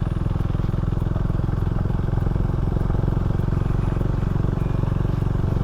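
Can-Am Ryker three-wheeled motorcycle engine running steadily while riding.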